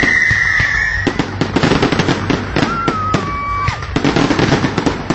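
Fireworks going off: a loud whistling firework that falls slightly in pitch cuts off about a second in, followed by dense crackling and popping, with another shorter whistle around the middle.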